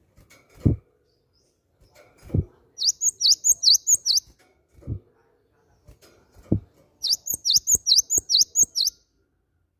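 Cinereous tit (gelatik batu) singing: two runs of four or five quick repeated high notes, about three a second. A few dull low thumps fall between the runs.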